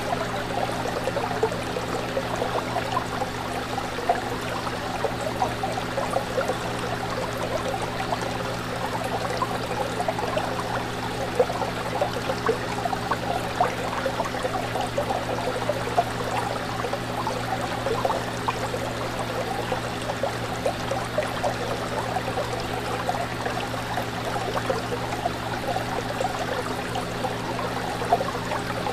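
Fish tank water running and bubbling continuously in many small splashes, over a steady low hum.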